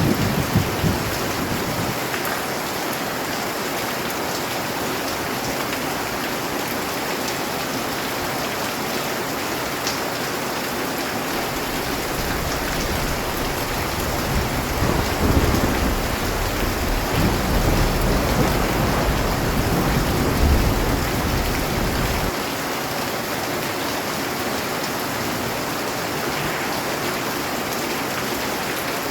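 Steady rain falling, with low rolling thunder: a rumble dies away in the first couple of seconds, another builds from about twelve seconds in and cuts off abruptly a little past twenty seconds.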